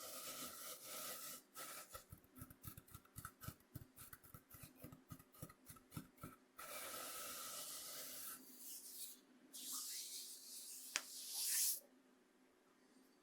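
Coarse cornmeal being scraped and rubbed across a bamboo cutting board, a dry, scratchy rubbing. A few seconds in it breaks into a quick run of many short scratches, then returns to steady rubbing. Near the end come a few swishes with one sharp tick, and then it stops.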